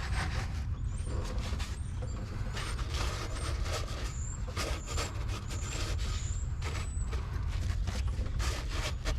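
Paper napkins rustling and crinkling as they are handled and laid over an engine's open intake ports, in many short strokes over a steady low wind rumble on the microphone. A few short high chirps sound through it.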